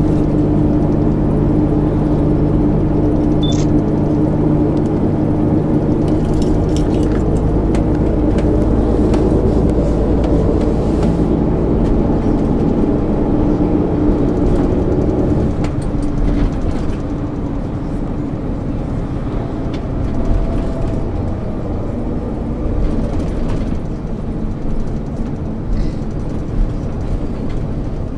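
1999 MAN ÜL 353 bus's diesel engine running steadily under load, then easing off about halfway through as the engine note drops away, leaving the rolling noise of the bus with a few short clicks and rattles.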